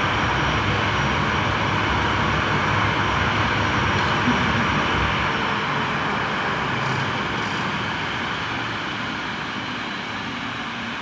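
CFM LEAP-1B jet engines of a Boeing 737-8 making a steady rushing roar. The low rumble drops away about halfway through and the whole sound slowly fades after that.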